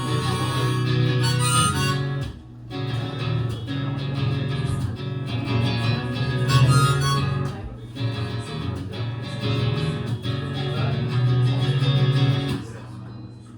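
Live acoustic music: strummed acoustic guitar with a harmonica playing the melody in an instrumental passage, dying away near the end.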